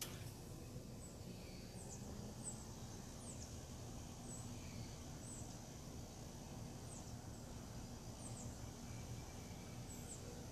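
Birds chirping: short, high, down-slurred chirps repeated about once a second, over a steady low rumble. A sharp click right at the start.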